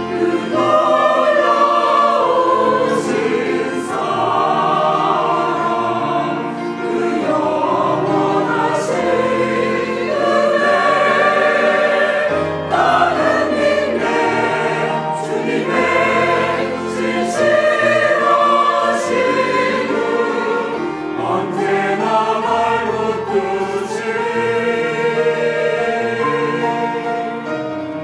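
Church choir singing a hymn in parts with instrumental accompaniment, the sound easing off near the end.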